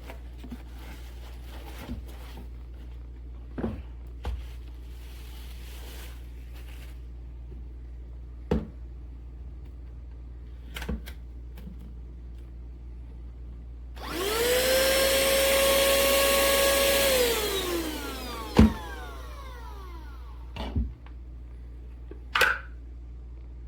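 Pemacom cordless handheld vacuum switched on briefly: its motor spins up to a steady high whine for about three seconds, then winds down after switch-off. Short handling knocks and clicks come before and after, with a sharp knock just after it stops.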